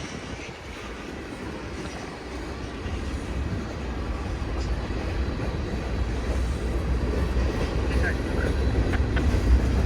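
Freight train approaching on the line, its low rumble growing steadily louder.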